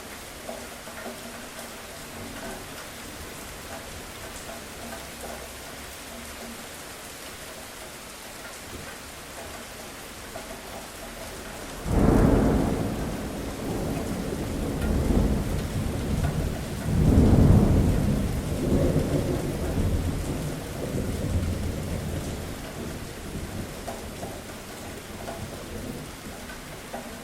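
Steady rain falling, with a clap of thunder about halfway through that breaks suddenly and rumbles on. The thunder swells again a few seconds later, then dies away under the rain.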